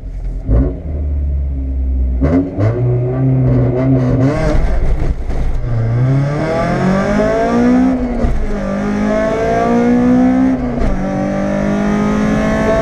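Honda Civic VTi's B18C4 four-cylinder engine, breathing through a four-into-one stainless exhaust manifold, heard from inside the cabin accelerating hard from a standing start: its pitch climbs through each gear and drops back at each gearshift. A sharp thump sounds about half a second in.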